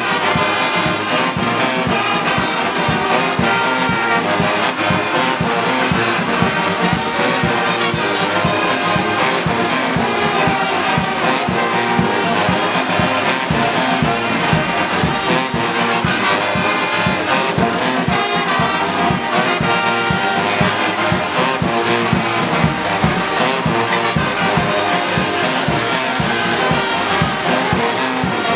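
Brass band music, trombones and trumpets prominent, playing over a steady beat.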